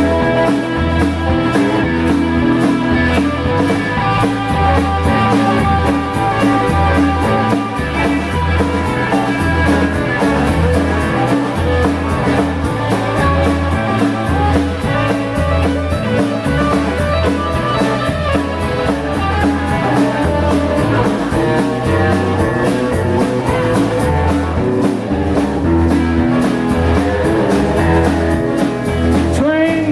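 Blues band playing an instrumental break: electric guitar over bass and drum kit with a steady driving beat.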